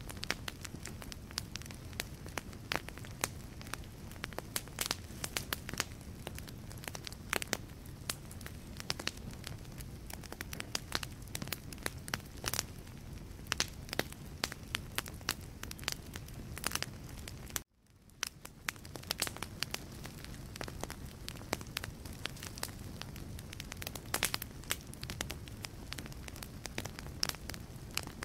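Wood logs burning in a fireplace: a steady low rush of flames with frequent sharp crackles and pops. A little past halfway the sound cuts out for an instant and fades back in.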